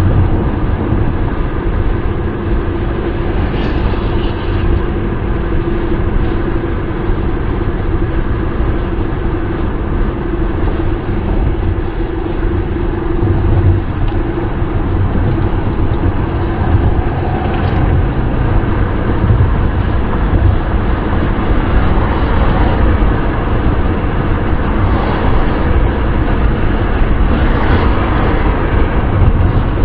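Steady wind and road noise of a car driving, a low rumble with a faint steady hum through the first half.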